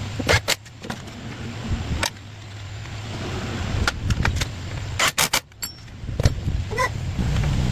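Scattered metallic clicks and knocks of hand tools working on motorcycle parts over an uneven low rumble, with a short rising squeak near the end.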